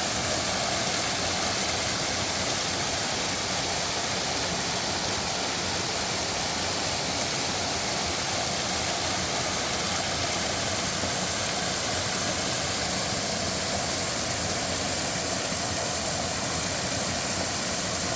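Waterfall in a mountain stream, a steady, unbroken rush of falling water.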